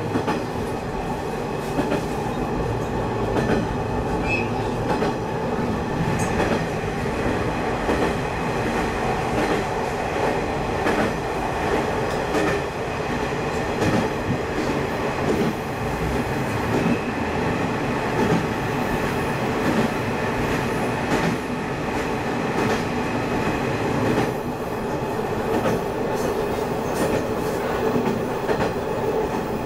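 Sanriku Railway diesel railcar running along the line, heard from inside the car: a steady rumble of engine and wheels on rail, with frequent short clicks of the wheels over the track.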